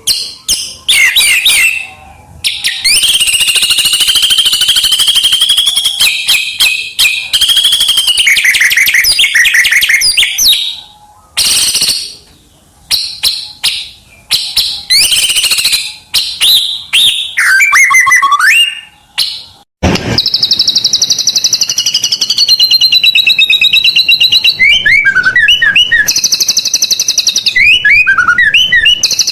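White-rumped shama (murai batu) singing a loud, varied song with mimicked phrases (isian): rapid high trills and down-slurred whistles in phrases separated by short pauses.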